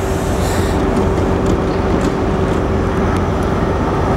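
Electric Class 91-hauled express train's coaches rolling past close by along the platform: a steady rumble of wheels on rail with a steady hum and a few faint clicks.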